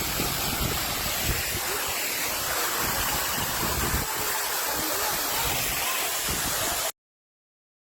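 Steady rush of a waterfall's falling water, with some wind buffeting on the microphone, cutting off abruptly near the end.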